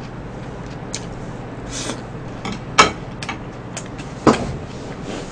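Chewing a mouthful of crunchy breaded fried fish cutlet, with scattered crackly crunches and two sharper, louder clicks about three and four and a half seconds in, over a steady low hum.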